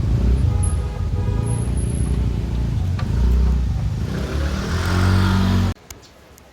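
A motor vehicle engine running, rising in pitch about four seconds in, then cutting off suddenly near the end.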